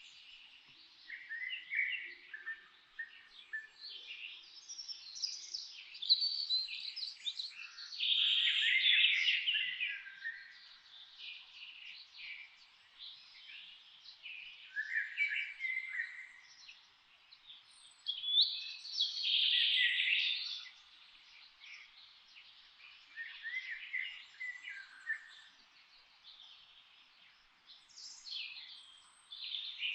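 Songbirds singing in a forest, several overlapping chirping and warbling phrases coming in bursts every few seconds with short lulls between them.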